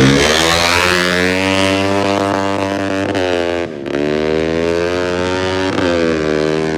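Racing motorcycle engine accelerating hard, its pitch climbing steadily and then dropping briefly twice, a little after halfway and near the end, like gear changes before it climbs again.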